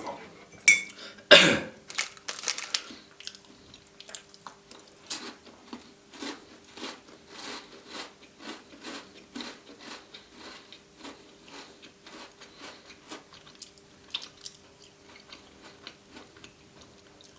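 Biting and chewing a white chocolate Tim Tam biscuit: two sharp crunching bites in the first two seconds, then steady chewing at about two chews a second that grows fainter.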